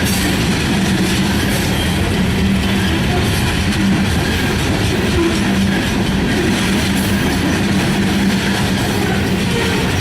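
Freight train rolling past close by: a loud, steady rush of steel wheels on rail, with a low hum that comes and goes.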